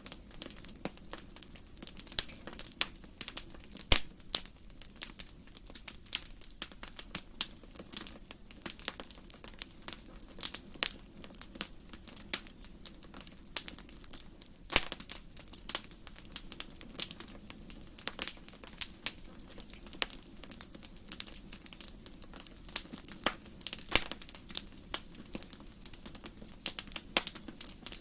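Wood fire crackling in a fireplace: irregular sharp pops and snaps, several a second, over a soft steady rumble.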